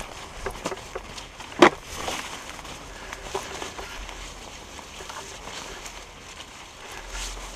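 Footsteps through forest litter, dry leaves and twigs crackling underfoot, with one sharp crack about a second and a half in.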